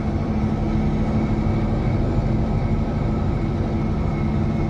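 Heavy diesel engine of a Caterpillar 637 running steadily as the machine drives over gravel, a constant low drone with an even pitch.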